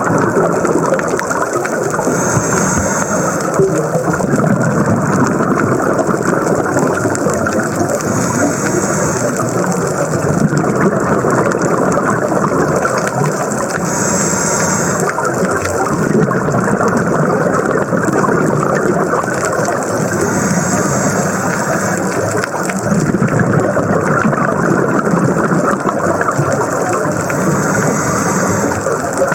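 Underwater recording of a scuba diver's regulator breathing: a steady rushing, bubbling noise with a high hiss about every six seconds.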